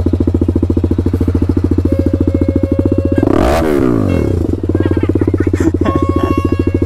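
TVS Apache RR 310's single-cylinder engine running at a steady low speed through an SC Project aftermarket exhaust, with an even, deep exhaust beat. About halfway through, a brief whooshing swell rises and falls as something passes close by.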